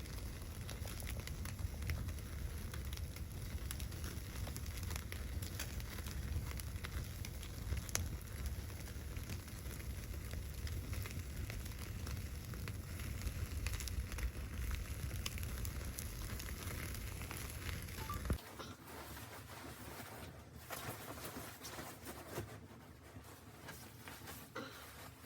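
Wood fire crackling, with scattered sharp pops over a steady low rumble. About 18 seconds in the sound changes abruptly to a quieter scene with only light ticks.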